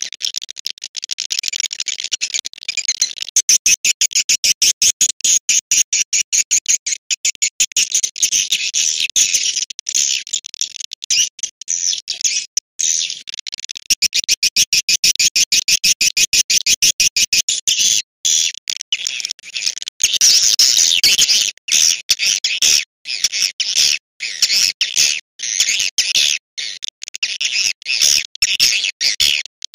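Swiftlet lure call: a recording of rapid, high-pitched swiftlet twittering chirps, many per second, with a few brief breaks. It is the sound played to draw swiftlets into a nesting house.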